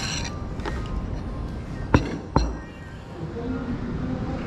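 Cutlery and dishes clinking while eating, a few light clinks with short ringing, then two sharper knocks about two seconds in. Background music plays underneath.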